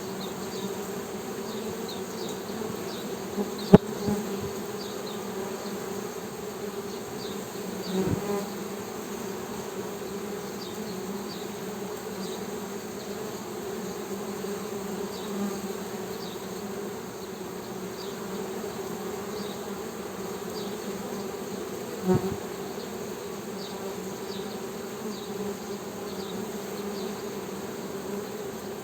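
Honey bees humming steadily. A sharp click comes about four seconds in, with a couple of softer knocks around eight and twenty-two seconds, and faint short high chirps above the hum.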